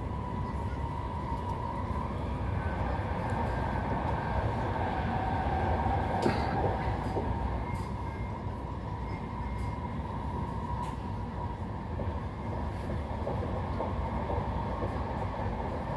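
Intercity passenger train running at speed, heard inside the coach: a steady rumble of wheels on the rails with a faint steady whine, and a single sharp click about six seconds in.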